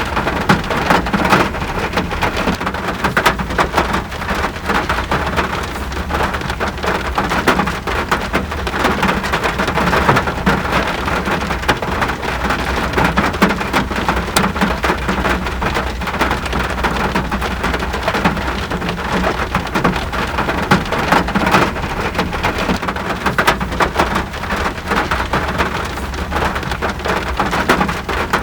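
Steady rain falling, a dense even patter of drops on a surface with no break or change.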